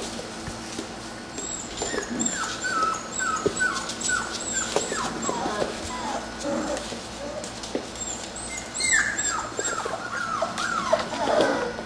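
Five-week-old puppies whimpering and whining in short squeaks that fall in pitch, several overlapping, thickest from about nine seconds in.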